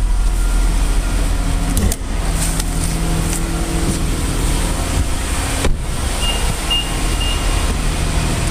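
2012 Nissan Maxima's 3.5-litre V6 idling steadily, with a low rumble throughout. A sharp thump comes a little past halfway, followed by a few short high beeps.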